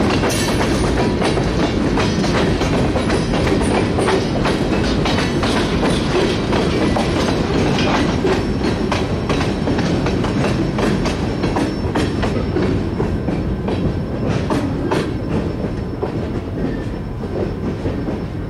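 Freight cars rolling past on jointed track, the wheels clicking and clattering steadily over the rail joints; the clatter slowly fades toward the end as the last cars move away.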